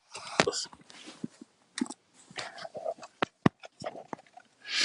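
Scattered soft clicks and small knocks from handling a computer while pages of images are arranged, ending in a short, loud burst of hiss.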